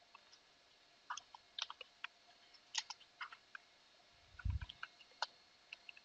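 Computer keyboard keys being typed, faint irregular clicks, with a soft low thump about four and a half seconds in.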